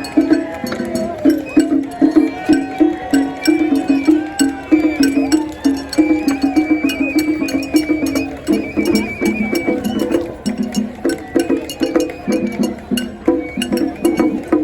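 Traditional Japanese festival music: rhythmic percussion struck in a steady pattern, with a high melody line stepping from note to note above it.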